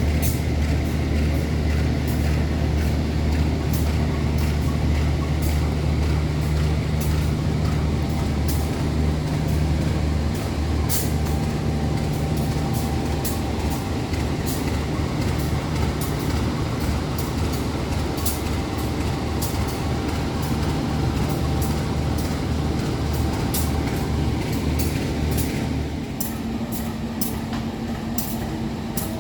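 Diesel locomotive engine running steadily with a deep low drone, which drops to a quieter, slightly different note about 26 seconds in. Scattered short clicks sound over it.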